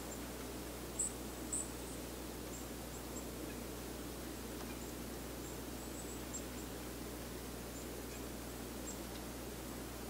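Winter outdoor ambience: a steady low background rush with scattered thin, very high chips of small birds, two of them louder about a second in.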